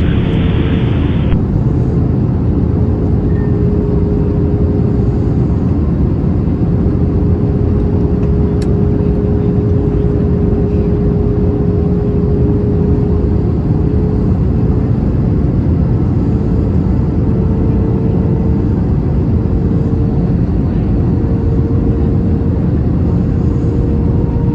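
Steady cabin noise inside an Airbus A321 on approach to land: a deep rush of engine and airflow with a faint steady hum wavering slightly over it.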